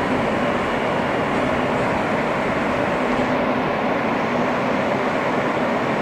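Steady hum and rush inside an R160 subway car standing in a station between announcements, its ventilation and onboard equipment running.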